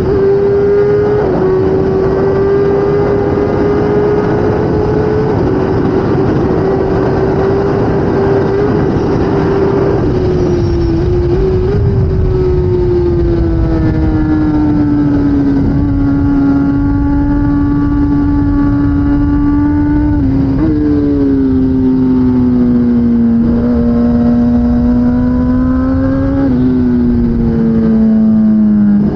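2016 Kawasaki ZX10R's inline-four engine running hard at racing speed, over a loud rushing noise. Its pitch holds high for about ten seconds, then sinks gradually, with brief jumps a few times as gears change.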